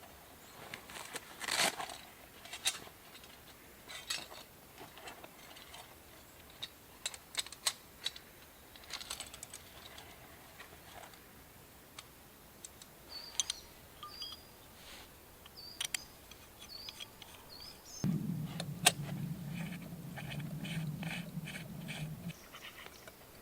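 Scattered clicks, clinks and knocks of camp cookware being handled, with a few short bird chirps midway. Near the end a low steady hum sets in for about four seconds and then cuts off suddenly.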